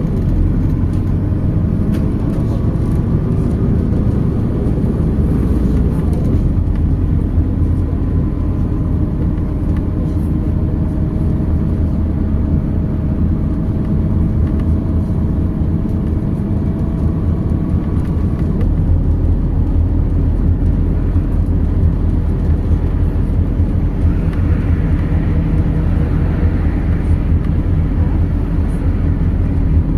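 MAZ 206 city bus in motion, heard from inside: a steady low engine and road rumble, with a drivetrain whine that slowly rises in pitch as the bus picks up speed.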